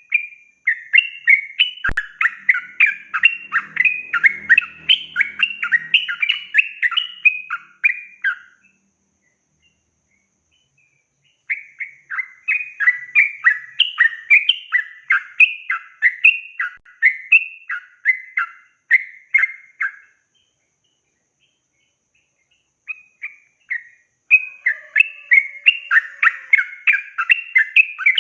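Yellow-vented bulbul singing long runs of rapid, bubbly chattering notes, breaking off twice for a few seconds of silence before starting again.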